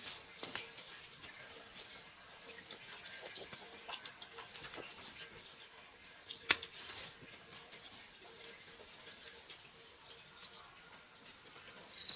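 Insects, cricket-like, trill steadily on one high pitch, with scattered light clicks and faint chirps over it. One sharp click comes about six and a half seconds in.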